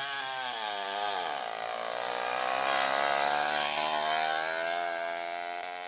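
Stihl MS440 two-stroke chainsaw engine on a motorized bicycle running through its new custom exhaust pipe. The pitch wavers over the first second or so, then holds steady, and the sound grows louder toward the middle and fades near the end.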